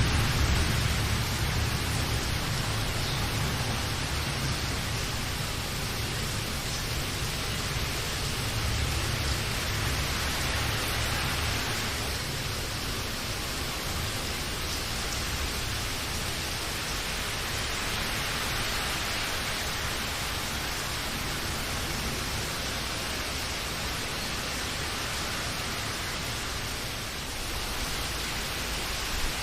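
Steady heavy rain, an even hiss with no single drops standing out. A low rumble of thunder sits under it at the start and fades over the first several seconds.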